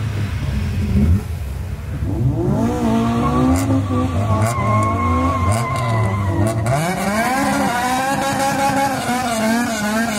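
Honda Civic four-cylinder engines revving up and down as the cars crawl past in a convoy, the pitch climbing and dropping again and again, with a few short sharp cracks in the middle.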